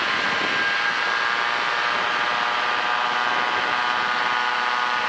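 Ultralight airplane's Yamaha Phazer engine and propeller running steadily at full power during a short-field takeoff.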